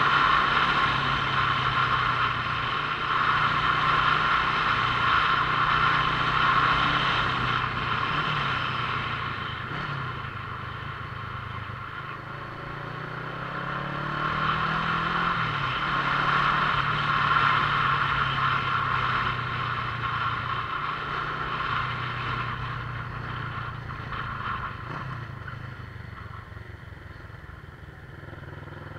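Motorcycle engine running while riding, its note rising and falling with speed, with a steady rushing noise over it. The engine rises in pitch about halfway through, and the whole sound eases off near the end.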